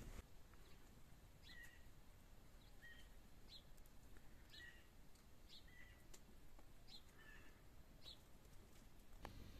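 Near silence with a small bird's faint, short chirps repeated every second or so, starting about a second and a half in.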